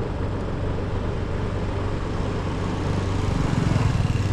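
Small moped engine running under way: a steady low drone that grows louder about three and a half seconds in.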